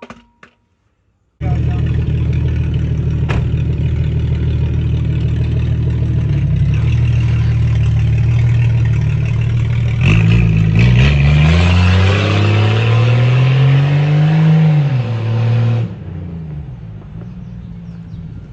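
Straight-piped Jeep engine idling loudly through an open exhaust, then revving up slowly for a few seconds and dropping back to idle. The sound cuts in sharply about a second in and drops away near the end.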